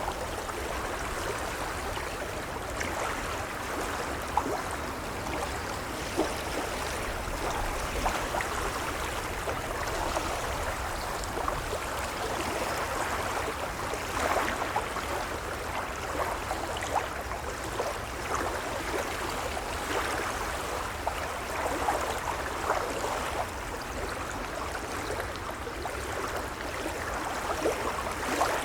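Gentle waves lapping: a steady wash of water dotted with many small splashes, over a low rumble.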